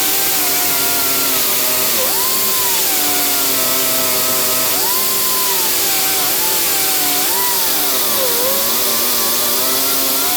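Metal lathe running under a cut, with a steady hum from the machine, a loud hiss, and a whine that slides up and down in pitch as the tool is fed by hand.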